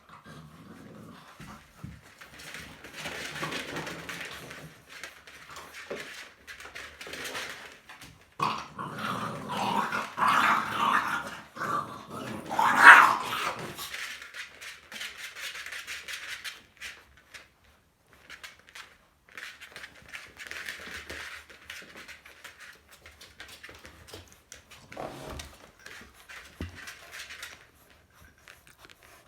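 American Bully puppies growling and whining, loudest and busiest from about eight to fourteen seconds in.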